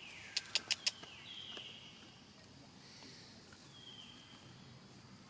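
High-pitched animal calls, three in all, each sliding down in pitch. Four quick sharp clicks come about half a second in.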